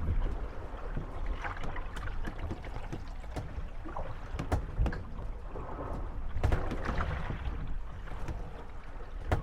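Moored wooden gondolas rocking on waves, creaking and knocking against one another in scattered, irregular clicks and thuds, over a low rumble of lapping water and wind.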